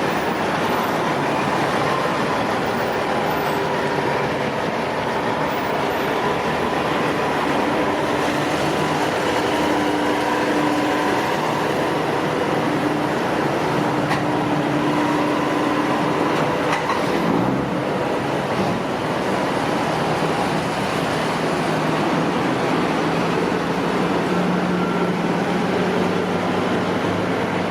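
Steady road noise of heavy trucks running, with engine hums that come and go and a deeper engine hum setting in a little past halfway.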